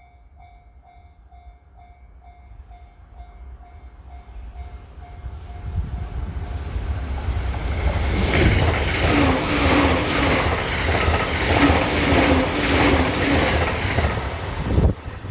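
Japanese level-crossing alarm ringing in a steady beat of about two tones a second as a JR E353-series limited-express electric train approaches. The train's rumble builds and it passes close by with rhythmic wheel clacks, and the sound drops off sharply near the end.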